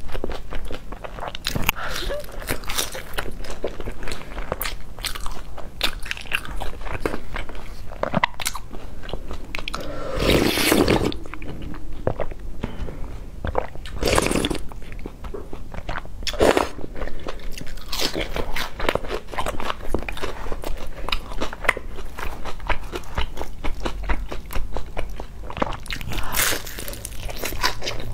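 Close-up chewing and crunching of crispy deep-fried cakes, a steady run of bites and crackly chews, with a long slurp of soup from a bowl midway.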